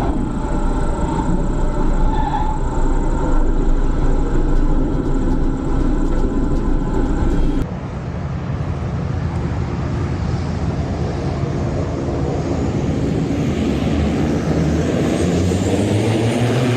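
Aircraft engine noise, loud and steady, changing abruptly to a different engine sound about eight seconds in; near the end a low hum rises a little in pitch.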